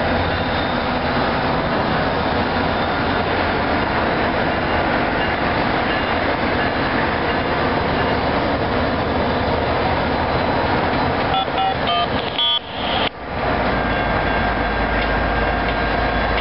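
Steady rumble of diesel passenger trains at a station platform, one pulling away while another, headlight lit, waits or slowly approaches on the near track. A few brief tones sound about eleven seconds in, and a deeper low rumble sets in near the end.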